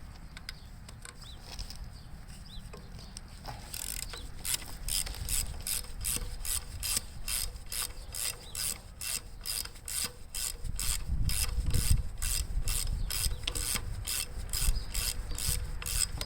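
Socket ratchet clicking in a steady run, about three to four clicks a second, as a 3/4 inch bolt is turned. It starts about four seconds in, with low knocks and handling noise under it in the second half.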